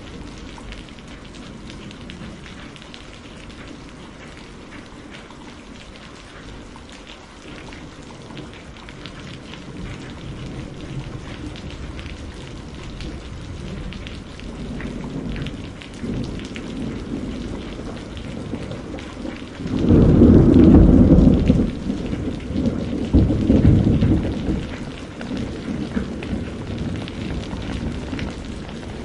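Steady rain with thunder rumbling in and building. A loud peal of thunder comes about two-thirds of the way through, with a second roll a few seconds later before it dies back to the rain.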